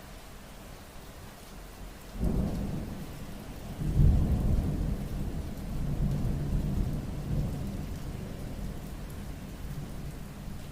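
Steady rain with a roll of thunder: a first clap about two seconds in, a louder one about four seconds in, then a low rumble that slowly fades.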